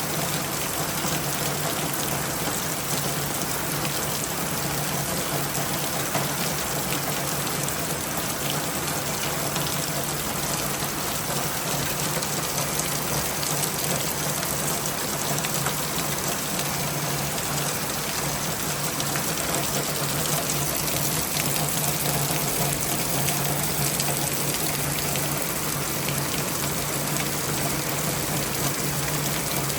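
Steady rain falling, an even hiss of water that holds at the same level throughout, with scattered sharp drop ticks.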